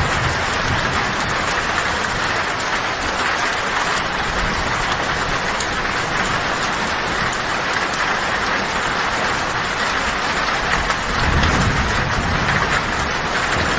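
Heavy rain drumming steadily on a tin roof, a dense even hiss. A low thunder rumble swells in about eleven seconds in.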